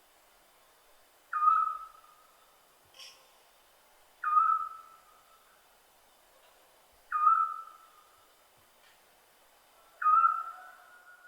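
Scops owl calling: a short whistled note repeated four times, about every three seconds, each sliding down quickly at its start and then held briefly at one pitch. A faint, brief higher chirp comes about three seconds in.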